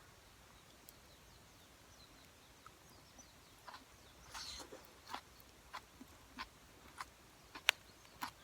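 Campfire crackling faintly: a quiet background with scattered, irregular sharp pops and snaps from about halfway through.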